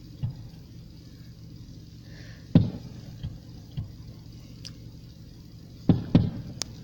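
Aerial firework shells bursting, a series of sharp bangs: a small one at the start, the loudest about two and a half seconds in, two lighter ones soon after, and two in quick succession near the end, over a steady low hum.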